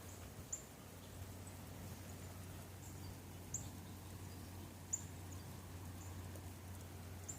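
Faint winter outdoor ambience during freezing rain: a steady low hiss and hum, with short, high-pitched chirping ticks every second or so.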